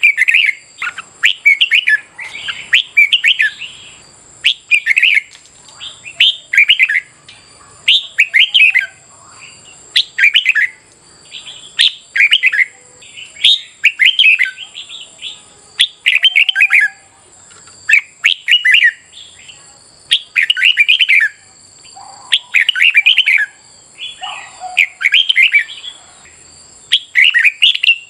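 Red-whiskered bulbul song: short, loud, warbling phrases repeated every second or two, without a break.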